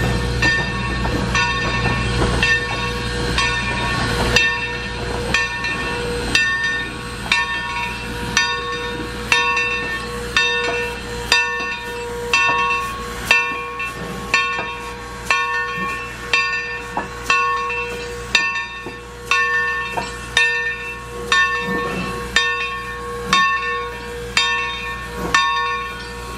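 Steam locomotive's bell ringing steadily, a little more than one strike a second, over the hiss of steam, as the engine backs up to couple onto its train. A low rumble fades out about four seconds in.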